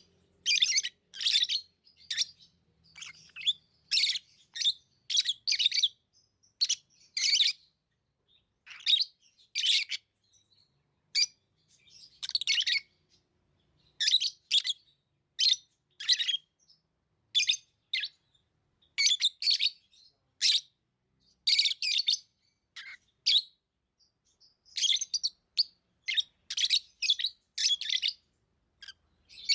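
Pet lovebirds chirping: short, shrill calls in quick irregular clusters with brief pauses between them.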